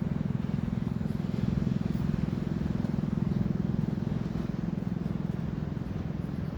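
Steady low rumble of a running motor, with a fast, even pulse.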